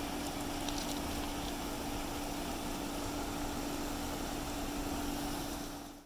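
Water pouring off an old pickup-truck waterfall into a rock pool: a steady rushing splash, with a steady low hum underneath. It fades out near the end.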